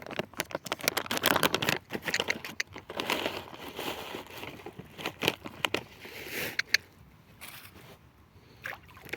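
Crinkling and crackling of a bag being handled to get food out for the swans, densest in the first few seconds and easing off near the end.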